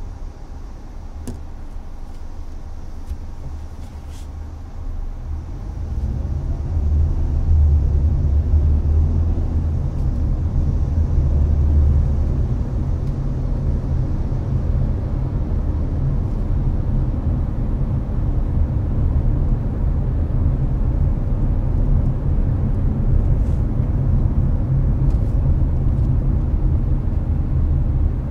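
Interior cabin noise of a Hyundai Avante cruising on an expressway: a steady deep road and engine rumble with the air conditioner's fan hiss over it. The rumble gets louder about six seconds in and holds there.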